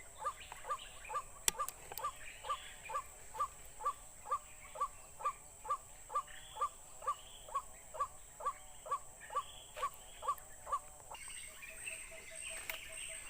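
A bird calling one short note over and over, evenly, about twice a second; the calls stop about eleven seconds in.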